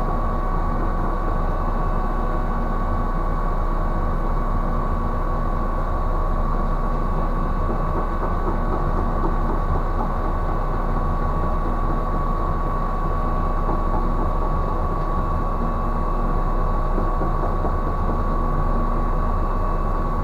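Ship's cargo crane machinery running steadily during a lift: a low engine drone with a constant high whine over it.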